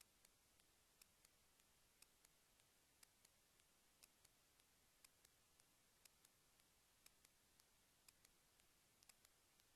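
Near silence with faint, regular ticks: a stronger tick about once a second, with weaker ticks in between, over a low hiss.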